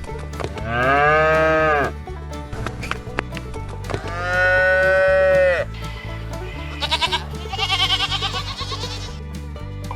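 Farm animal calls over background music with a steady bass line: two long, drawn-out moo-like calls, the second higher and longer, then a higher, wavering call near the end.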